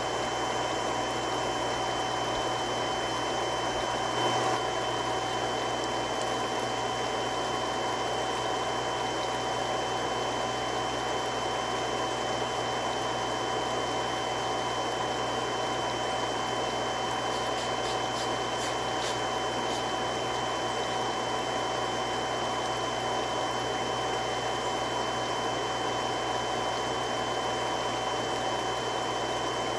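Three-stage irrigation water pump running steadily: a constant rushing hiss with a few fixed whining tones and a low hum. A brief small bump about four seconds in.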